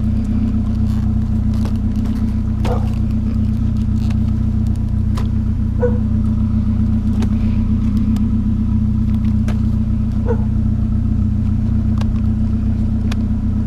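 Pickup truck engine running steadily, a constant low hum, with scattered light clicks and knocks over it.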